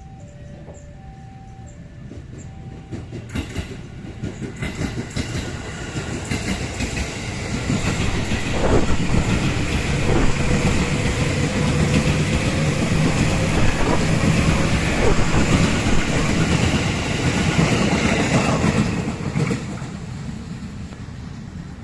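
Indonesian railway train passing by. It grows louder over several seconds with a dense run of wheel clicks, stays loud for about ten seconds, then fades away near the end.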